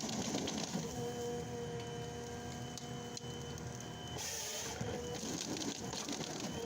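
Heavy forestry machine running: a steady engine and hydraulic whine with scattered clicks, and a stretch of hiss about four seconds in.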